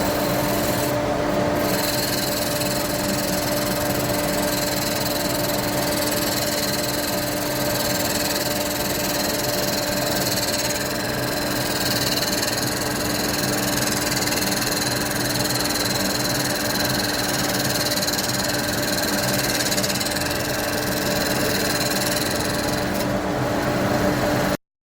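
Charnwood W824 midi woodturning lathe running with a tool cutting a spinning wood blank: a steady hum under a continuous hissing scrape, cutting off abruptly near the end.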